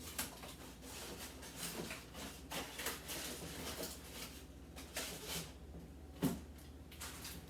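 Food containers and packages being handled and moved around inside a refrigerator: irregular rustling, light knocks and clatter, with one sharper knock about six seconds in, over a steady low hum.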